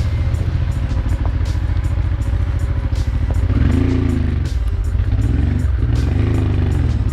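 Honda motorcycle engine running while riding, its pitch rising and falling with the throttle in the middle of the stretch, with background music laid over it.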